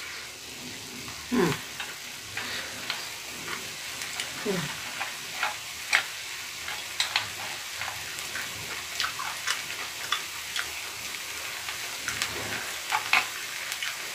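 Close-miked eating: chewing spoonfuls of tuna kimchi fried rice, with many sharp, wet mouth clicks scattered throughout and a spoon scooping from the pan. Twice, about a second and a half in and again about four and a half seconds in, a short falling hum comes from the eater.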